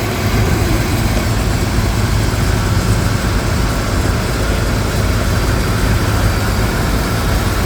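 Tractor engine running steadily at a low, even rumble, with no change in speed.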